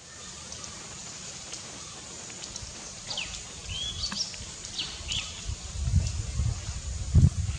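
Several wild birds calling in forest: short chirps and whistled notes, some rising and some falling, starting about three seconds in over a low steady background rumble. A low thud comes near the end.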